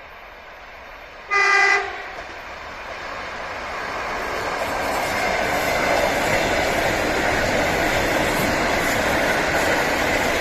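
A train horn gives one short blast about a second in. Then a train approaches and passes, its running noise swelling to a steady loud rush with faint wheel clicks.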